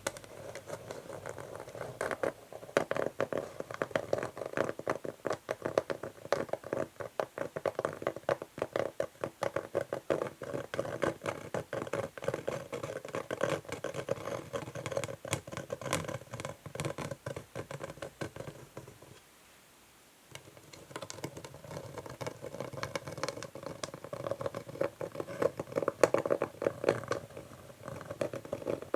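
Natural fingernails scratching and tapping on an old wooden chess board in quick, closely spaced strokes. There is a short pause about two-thirds of the way through before the strokes resume.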